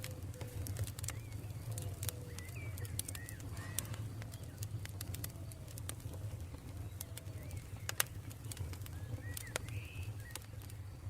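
Campfire crackling with frequent sharp pops, the loudest about eight seconds in, over a steady low rumble, with birds calling in short repeated chirps behind it.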